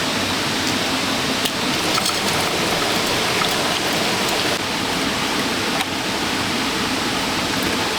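Steady hiss of rain falling, with a few faint sharp ticks scattered through it.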